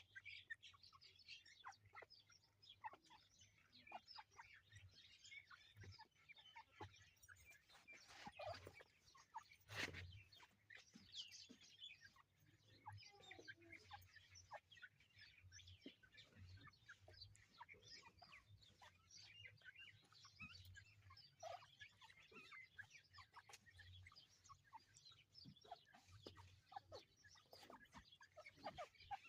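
Teetar (francolin) calling faintly, with many short, scattered high notes and clucks throughout.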